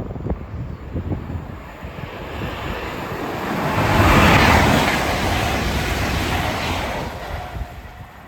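A train passing through the station at speed: a rushing noise that swells to its loudest about four seconds in and then fades away. Wind buffets the microphone throughout.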